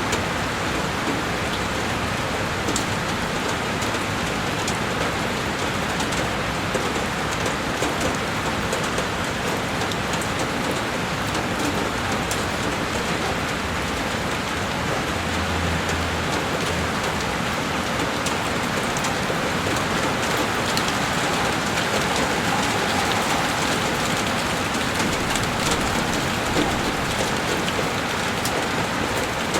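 Heavy rain falling steadily on a window pane, a dense even patter with many individual drops ticking on the glass.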